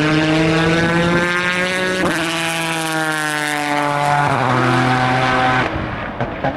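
Endurance race car's engine at full throttle, its note climbing steadily through the revs, with a gear change about two seconds in and a drop in pitch at another shift a little after four seconds. The engine note cuts off abruptly about a second before the end.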